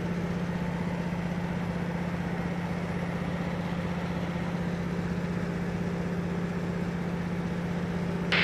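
DeHavilland DHC-2 Beaver's Pratt & Whitney R-985 radial engine and propeller droning steadily in cruise flight, with a short click near the end.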